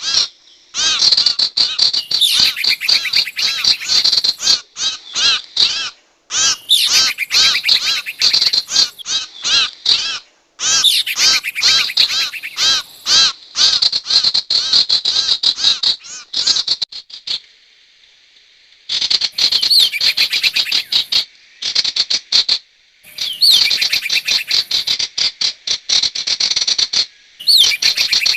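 Sirtu bird calls from a bird-lure recording: rapid trains of sharp chirps, many a second, in runs of a few seconds with short pauses between them.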